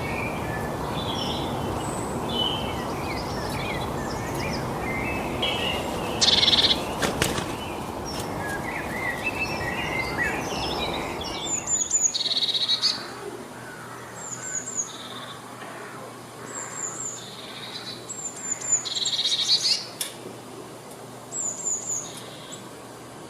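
Birds chirping and calling, many short overlapping calls. Over the first half they sit on a steady rushing noise, which cuts off abruptly about halfway. After that a quick, high three-note call repeats several times among louder calls.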